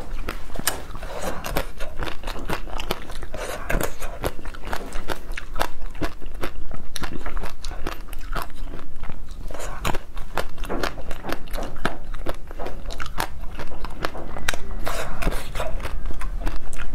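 Close-miked eating sounds: a person biting and chewing desserts, with many quick, irregular mouth clicks and smacks.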